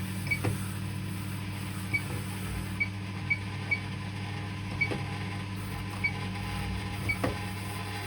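Electrolux Quickwash commercial washing machine's control panel giving short high beeps at irregular intervals as its buttons are pressed to set up another rinse, over a steady low hum from the machine, with a few faint clicks.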